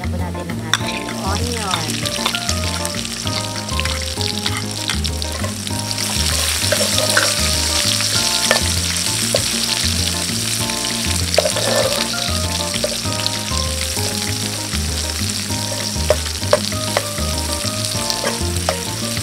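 Garlic frying in hot oil in a black cast-iron pot, sizzling steadily, with a metal spoon stirring and scraping against the pot. About six seconds in, chopped red onion goes in and the sizzle grows louder. Background music with a steady bass beat plays underneath.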